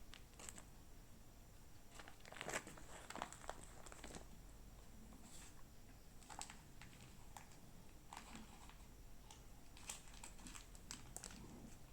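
Faint, scattered crinkling and crackling, in short irregular clicks with a few stronger ones about two and a half seconds in, around six and a half seconds, and a cluster near the end.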